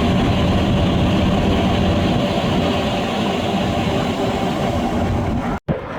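Aircraft engine running, a loud steady rumble with a faint hum in it; the sound cuts off suddenly near the end.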